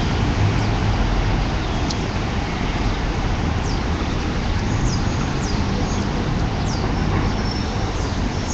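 Steady road traffic noise, with about five short, high chirps that fall in pitch scattered over it.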